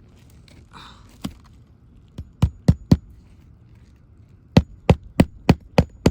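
Hammer blows on a roof shingle's nails: a single strike, a quick group of three, then a steady run of about three strikes a second.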